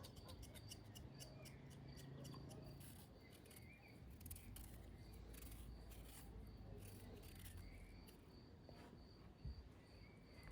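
Near silence: faint scattered clicks, with a faint high tone pulsing about twice a second through the later part.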